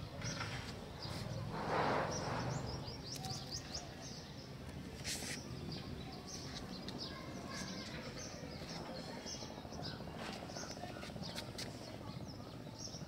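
Birds chirping: short, high chirps scattered throughout over steady background noise, with a brief louder rush of noise about two seconds in.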